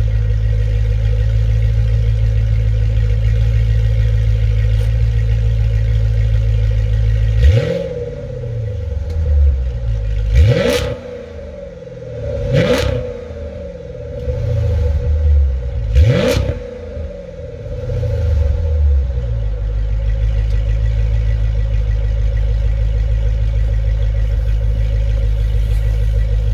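2010 Chrysler 300 SRT8's 6.1-litre Hemi V8, with the mid muffler deleted, idling, then revved four times in quick succession, each rev rising sharply and dropping back, before settling to a steady idle again.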